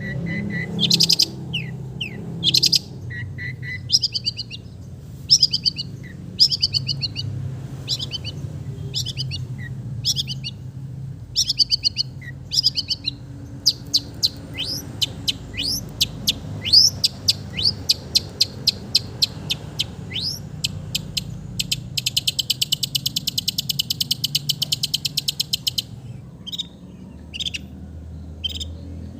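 Long-tailed shrike (cendet) singing a varied mimic song, said to include sooty-headed bulbul (kutilang) calls. Short high chirped phrases come about once a second, then a fast run of rapid notes, then a dense buzzy trill of about four seconds near the end.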